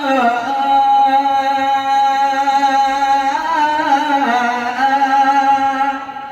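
Male nasheed singer's voice holding a long drawn-out melismatic note. The pitch bends and shifts about four seconds in, then settles. The note fades out near the end.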